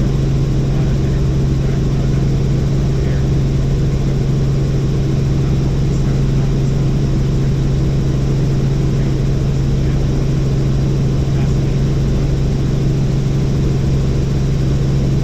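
Helicopter in steady flight: a constant drone of engine and rotor with a strong, even low hum.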